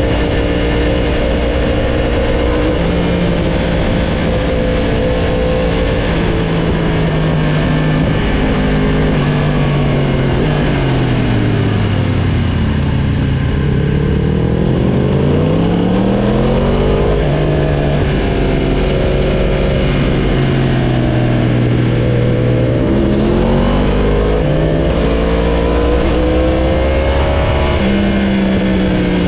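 Sportbike engine running hard under a rider, its pitch steady at first, then falling smoothly as the throttle is rolled off, climbing again, and dipping and rising a few more times as it is ridden through bends.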